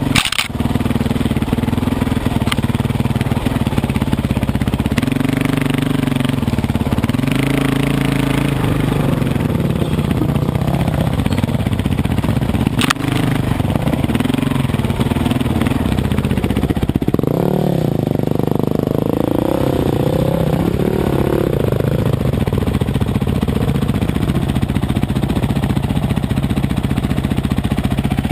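Dirt bike engine running under way. Its pitch rises and falls with the throttle, with a stretch of harder revving a little past the middle.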